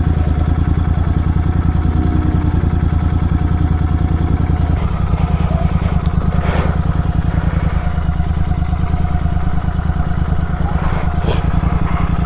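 Kawasaki Z900 inline-four with an aftermarket SC Project exhaust running under way at steady cruise, a dense pulsing exhaust note that shifts about five seconds in, with a few brief noisy swishes.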